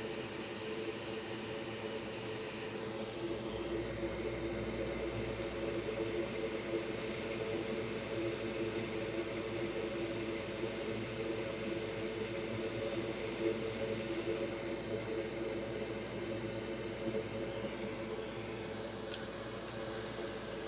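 Steady whir of an electric fan on the electronics repair bench, with a hum of several steady low tones; a deeper rumble joins about three seconds in.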